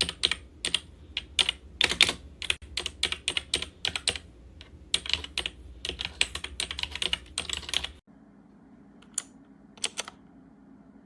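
Fast, uneven typing on a MageGee 75% mechanical keyboard, a clatter of many keystrokes. It stops abruptly about eight seconds in, leaving a faint steady hum with two single key clicks.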